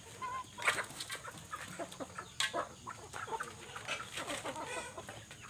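A string of short, quick animal calls with scattered sharp clicks.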